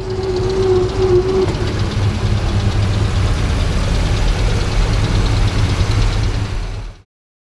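1935 International Harvester C-35's 241 cubic inch overhead-valve six-cylinder engine running with a steady low rumble, with a steady whine over it that fades out in the first second and a half. It cuts off abruptly near the end.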